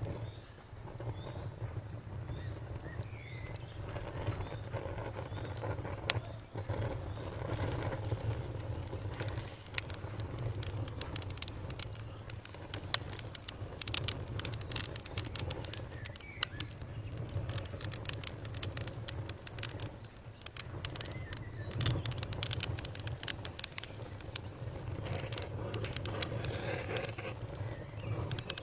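Wood fire crackling with frequent sharp pops over a steady low rumble. A cricket chirps in a rapid, even pulse for the first several seconds, and a bird gives a few short chirps now and then.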